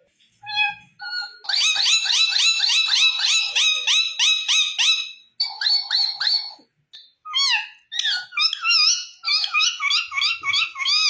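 Pet parrot calling: a fast run of repeated rising chirps, about five a second, for three or four seconds, then broken warbling notes with short pauses.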